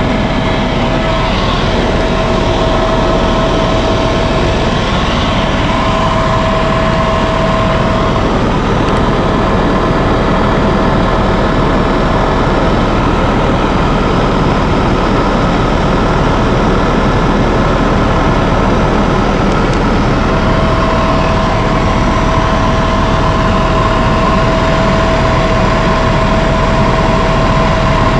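Helicopter heard from inside the cabin: a loud, steady drone of engine and rotor, with a steady whine that drops away for a stretch in the middle and comes back.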